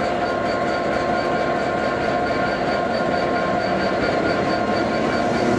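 Class 66 diesel locomotive standing at a signal with its engine idling, mixed with a South West Trains electric multiple unit running slowly alongside, its wheels and motors making a steady rail noise with a few held tones.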